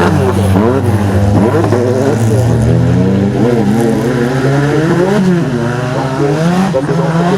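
Racing car engine revving hard on a hillclimb run, its pitch rising and dropping again and again through gear changes and lifts, over a steady low drone.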